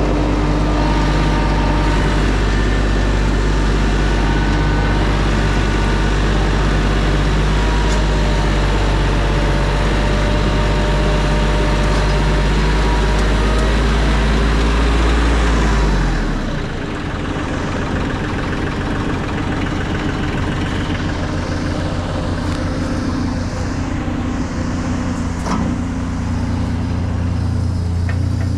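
A large engine running steadily at close range; about halfway through its low note changes and the level dips briefly, then it runs on steadily.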